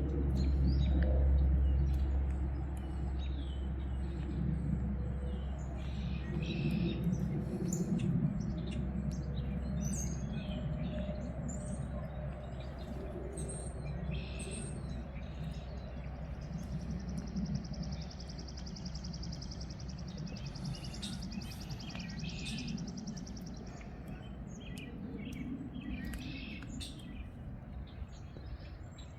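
Several songbirds chirping and calling in short bursts, with one high, even trill lasting several seconds in the middle. Wind rumbles on the microphone underneath, strongest at the start.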